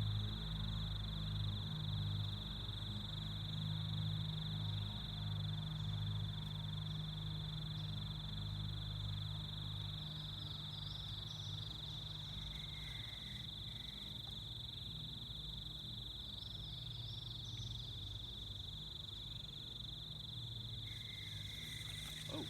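Cicadas droning in a steady, high-pitched chorus, over a low steady hum that weakens somewhat after the middle. Short higher chirps come in two small clusters, about halfway through and again a few seconds later.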